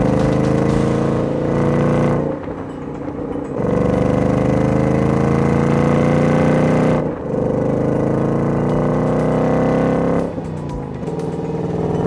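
Ford Mustang GT V8 engine accelerating under load in several cut-together passes, its pitch climbing steadily through each, with brief drops between the passes.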